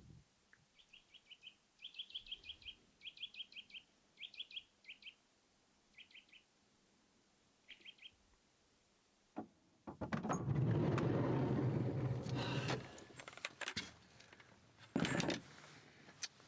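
A small bird calling in clusters of short, rapid high chirps, several bursts over about seven seconds. A few seconds later comes a louder stretch of rough rumbling noise, then scattered knocks.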